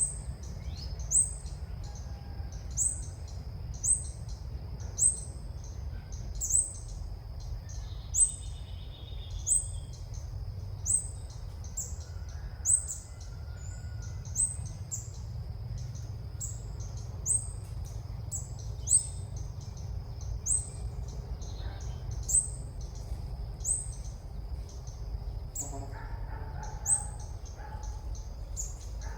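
Female ốc mít bird call played back as a trapping lure: one short, high chirp repeated at an even pace, about every one and a half seconds. A steady thin high tone runs underneath.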